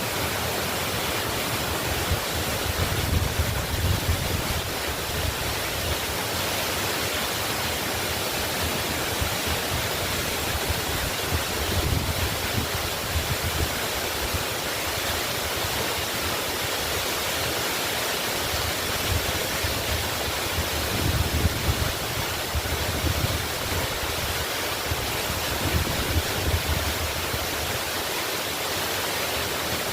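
Waterfall rushing in a steady, even roar of falling water, with low rumbling swells rising and fading every several seconds.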